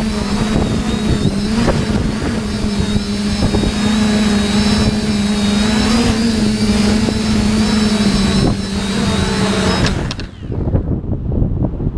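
TBS Discovery quadcopter's brushless motors and propellers running with a steady, high-pitched hum and whine, cutting off suddenly about ten seconds in. After that only wind buffets the microphone.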